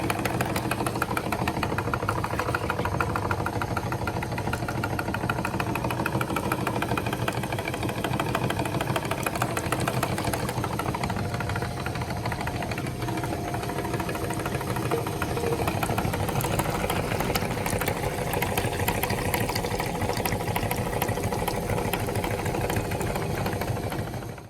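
Electric meat grinder running steadily, its motor humming with a fast, even chatter, while bubble gum is put through it. It cuts off abruptly near the end.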